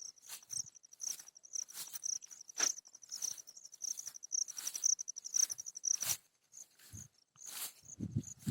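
An insect's fast, pulsing, high-pitched trill, steady at first and breaking into short spurts after about six seconds, over a series of brief rustling crunches repeating every half second or so.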